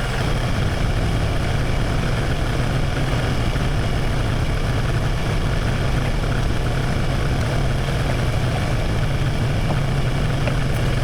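LS XR3140H compact tractor's diesel engine idling steadily.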